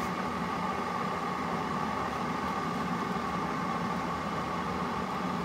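Steady mechanical hum with a constant high whine in it, unchanging throughout.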